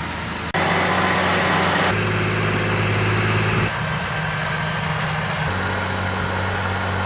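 John Deere 6150R tractor's six-cylinder diesel engine running steadily, in several short takes spliced together, so its loudness and tone jump abruptly about every one to two seconds before cutting off suddenly at the end.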